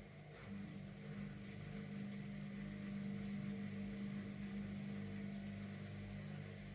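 Indesit washing machine running a component in its diagnostic test mode: a steady electric motor hum.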